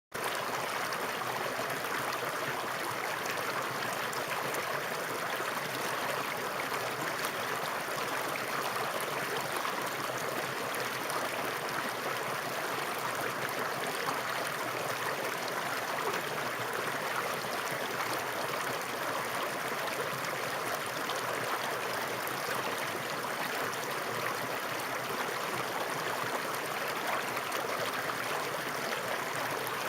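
Flowing water rushing in a steady, even stream with no breaks or changes.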